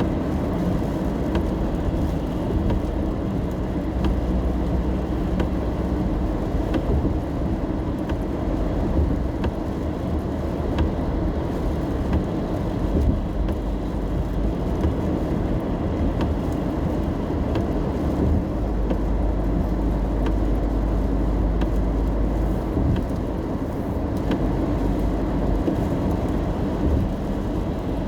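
Steady road and engine rumble heard from inside a car driving in the rain, with scattered light taps of rain on the car.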